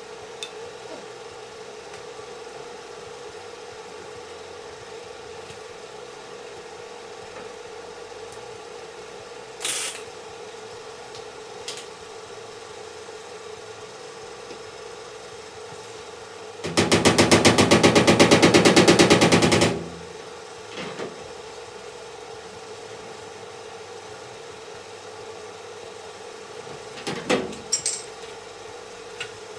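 A power tool running for about three seconds with a fast, even pulse of rapid strikes, over a steady hum in the shop. A few single knocks come before and after it.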